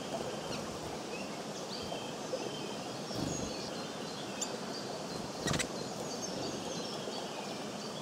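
Small birds chirping, many short high calls, over steady outdoor background noise, with one sharp knock a little past the middle.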